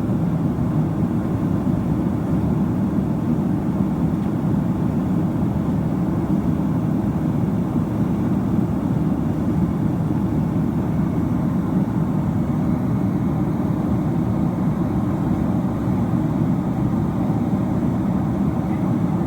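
Steady cabin roar of a Boeing 767-300ER's jet engines and airflow, heard from inside the passenger cabin: a constant low rumble with no changes.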